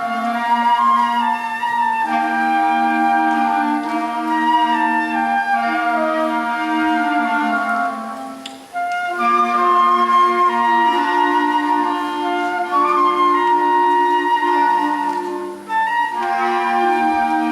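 Student concert band playing a slow, lyrical piece, a woodwind melody over sustained lower chords. The music thins out briefly between phrases twice, at about the middle and again near the end.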